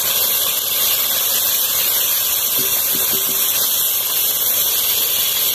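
Freshly added onion paste sizzling steadily in hot oil in an aluminium kadhai.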